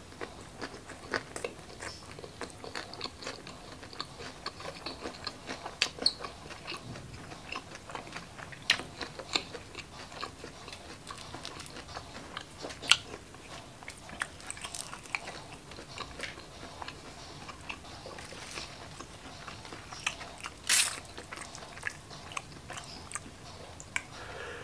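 Close-miked chewing and crunching of fried shrimp eaten with rice and curly lettuce. The crunches come at irregular intervals, a few louder than the rest, the loudest about 21 seconds in.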